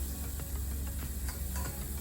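Food sizzling in a frying pan while being stirred, with the irregular clicks and scrapes of a utensil against the pan.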